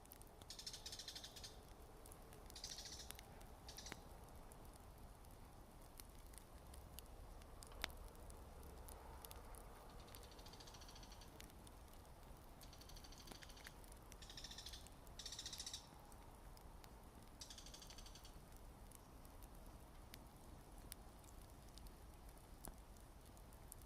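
Campfire burning with faint scattered crackles and one sharper pop about eight seconds in. Short high chirping trills come and go in the background, several times.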